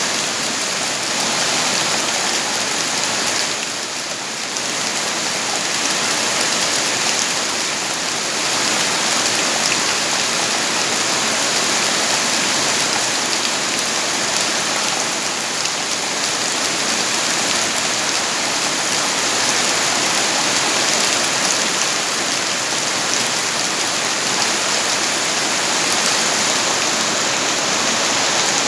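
Steady rainfall, a dense even hiss of raindrops falling on surfaces, easing slightly for a moment about four seconds in.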